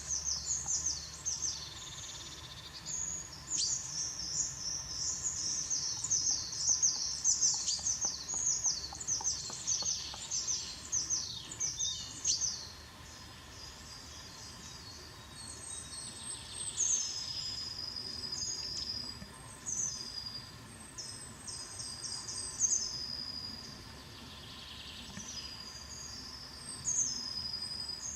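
Small songbirds singing: rapid, high chirping phrases, densest through the first half and thinning to scattered high notes later, with a few faint knocks in the first half.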